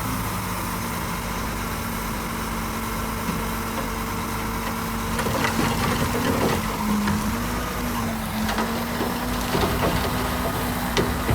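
Heavy diesel engine of earthmoving machinery running steadily. From about halfway in, knocks and rattles of stone and steel join it, and the engine pitch dips briefly twice as it takes load.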